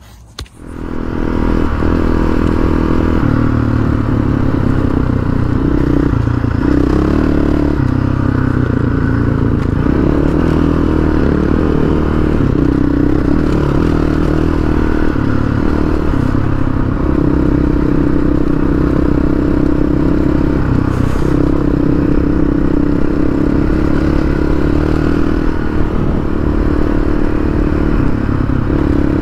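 Honda CRF450 dual-sport motorcycle's single-cylinder four-stroke engine running under way, heard from on board the bike, its pitch stepping up and down with throttle and gear changes on a rocky dirt trail.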